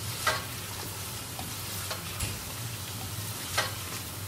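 Mutton and chopped tomatoes sizzling as they fry in a pressure cooker pan, with a spatula stirring and scraping through them: the tomatoes being fried down until soft. Two louder scrapes come about a third of a second in and near the end, with lighter strokes between.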